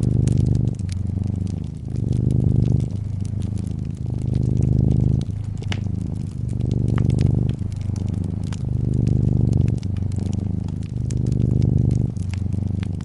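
Domestic cat purring close up, the purr swelling and easing with each breath about every second and a half, over the crackling and sharp pops of a fireplace fire.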